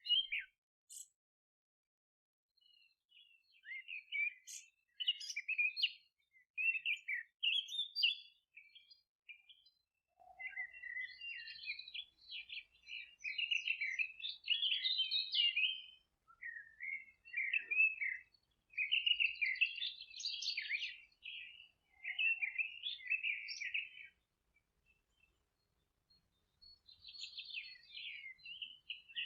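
Songbirds singing in bouts of quick chirps and trills, with short pauses between phrases.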